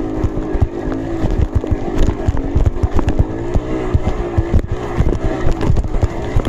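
Trail motorcycle engine running at low, gently wavering revs, with many irregular knocks and clunks underneath.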